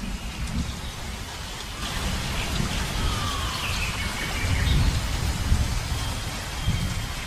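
Outdoor ambience: low gusty rumble of wind on the microphone over a steady rushing noise, with a few bird calls gliding in pitch in the middle and a thin whistled note near the end.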